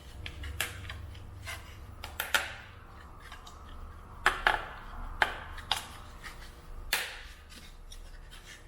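Scattered light knocks, clicks and scrapes of a small wooden stand being handled and set in place, over a low steady hum.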